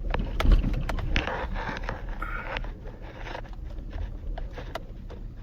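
Cab noise of a GMC Sierra pickup driving a rough dirt road: a steady low rumble from the road, with scattered knocks and rattles as the truck bounces.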